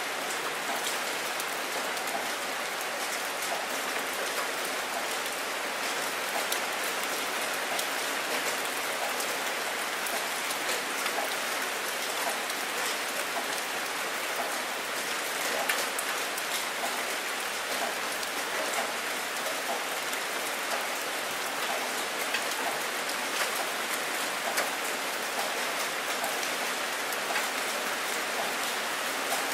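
Steady heavy rain falling onto a water surface, with many separate drop hits ticking through a constant hiss.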